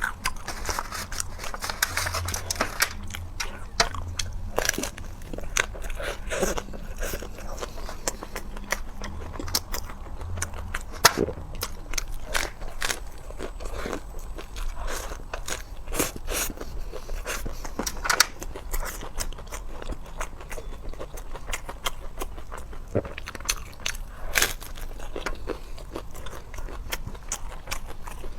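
Close-up eating sounds: a person biting and chewing crunchy food, with dense, irregular crackles and crunches throughout.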